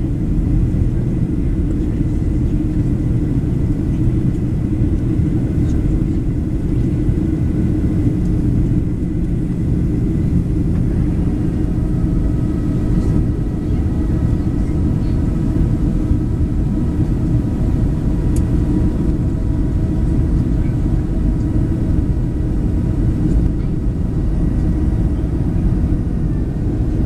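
Steady low rumble of a Boeing 737-700 heard from inside the cabin on descent, made up of airflow and CFM56-7B engine noise. About twelve seconds in, faint steady whine tones from the engines come in above the rumble.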